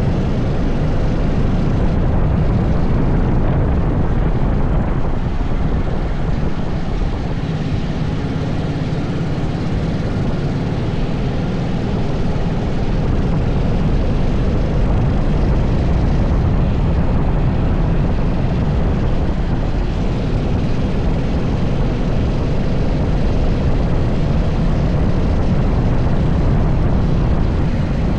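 80cc kart engine running continuously under way, its level rising and falling slightly with no pauses.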